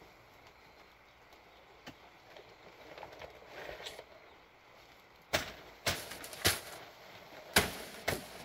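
A series of five sharp knocks or snaps, uneven and close together, over a quiet outdoor background, in the second half.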